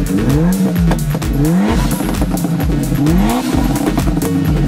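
A Mitsubishi Lancer Evolution IX's turbocharged four-cylinder engine revving in quick rising blips. Music with a steady beat plays underneath.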